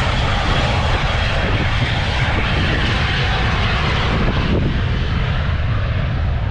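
Airplane engine noise, steady and even, with a strong low rumble.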